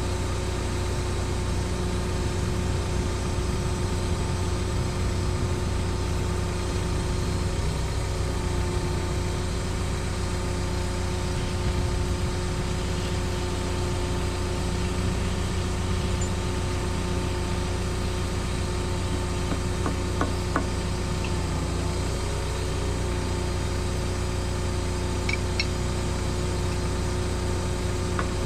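Cat 314E excavator's diesel engine running at a steady idle, with a few faint metallic clicks about two-thirds of the way through and again near the end.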